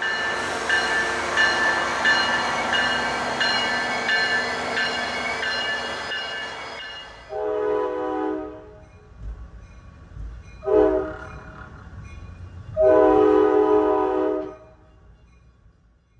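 Train noise with a bell ringing in a steady rhythm, cut off abruptly after about seven seconds. Then a multi-chime train horn sounds three times: a long blast, a short one, and a long one.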